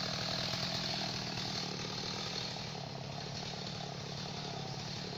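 Chainsaw engine running at a steady pitch, fairly quiet and unchanging.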